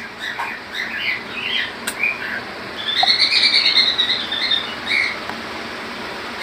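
Caged birds chirping: a string of short chirps, with one longer wavering whistled call about three seconds in.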